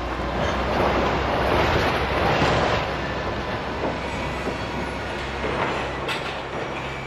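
Heavy vehicle running with a steady low drone, its rumbling noise swelling between about one and three seconds in, with a few scattered knocks.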